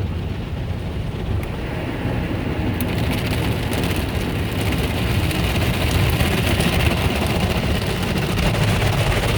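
Automatic car wash working over the car, heard from inside the cabin: a steady low machine rumble under a hiss of spray and clatter on the body, which grows louder about three seconds in.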